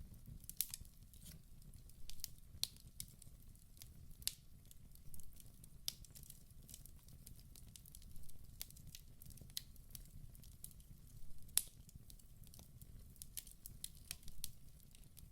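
Wood fire burning in a fireplace: frequent, irregular sharp crackles and pops over a low, steady rumble of the flames, with a louder pop about eleven seconds in.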